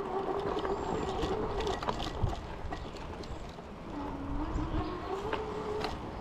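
Electric fat-tire bike riding along: the hub motor's steady whine, which fades out after a second and a half and comes back lower about four seconds in, rising in pitch and holding. Under it runs a constant wash of tyre and wind noise with scattered small clicks.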